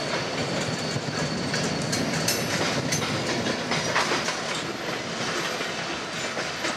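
Freight cars, covered and open hoppers, rolling past on the track: a steady rumble of steel wheels on rail with scattered clicks and clanks as the wheels cross rail joints.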